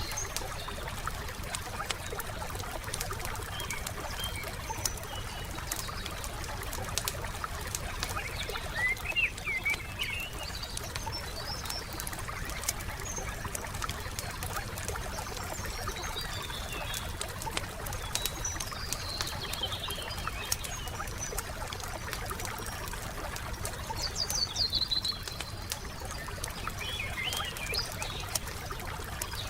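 Campfire crackling, with frequent small pops over a steady hiss. Birds chirp a few times, around a third of the way in, near the middle and again near the end.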